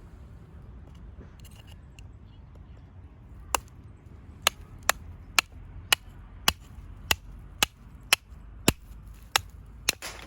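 A dozen sharp strikes on firewood at about two a second, starting a few seconds in: kindling being chopped and split. Low wind noise runs underneath.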